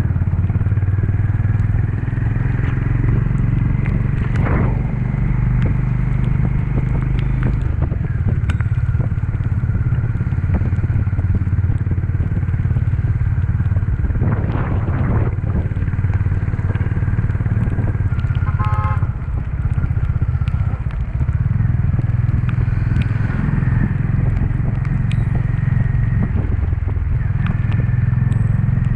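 Honda CB350 single-cylinder motorcycle engine running steadily under way, with the engine note easing off briefly about two-thirds through.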